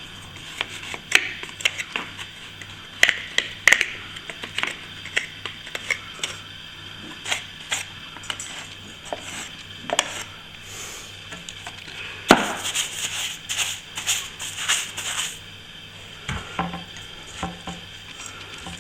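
Metal plastering tool scraping and tapping against plaster in short irregular strokes, with a denser run of scraping about twelve seconds in.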